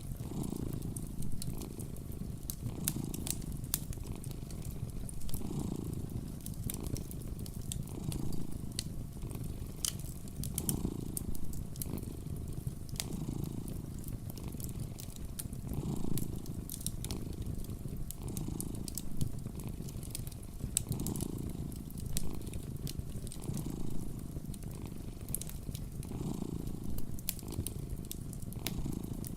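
Cat purring close up, a low steady rumble that swells and fades every couple of seconds with its breathing. A wood fire crackles with scattered sharp pops.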